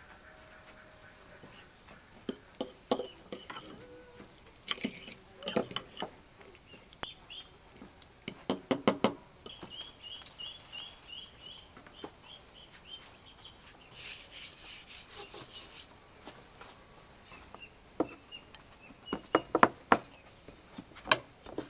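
Kitchen utensils and dishes being handled: scattered clinks and knocks, some in quick clusters, over a steady high drone of insects.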